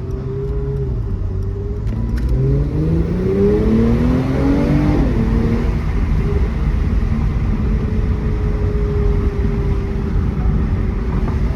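2018 Mercedes-AMG E43's twin-turbo V6 accelerating: the engine note climbs for about three seconds, drops sharply at an upshift about five seconds in, then settles into a steady cruise with a slowly falling pitch, over road rumble.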